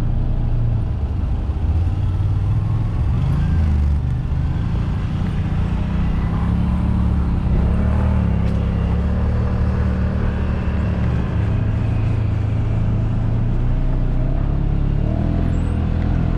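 Side-by-side UTV engine running steadily on the trail, its note rising and falling a little with the throttle.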